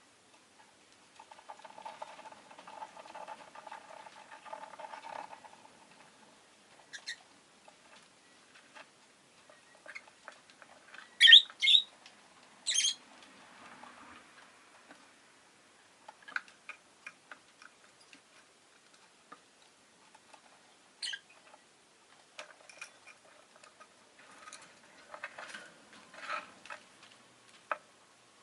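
Rosy-faced lovebird chattering softly, then giving three sharp, loud chirps near the middle, with single calls and more chatter later amid scattered light clicks.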